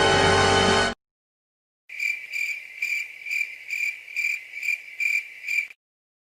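Cricket chirping sound effect: a high, evenly spaced chirp repeating about two and a half times a second for nearly four seconds, then cutting off. Before it, a music clip stops abruptly about a second in.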